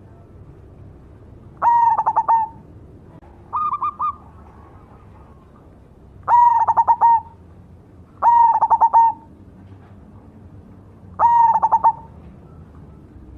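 Zebra dove (perkutut) singing its cooing song in five separate phrases, each a quick run of rolled notes, repeated every two to three seconds. The third phrase is shorter and higher than the rest.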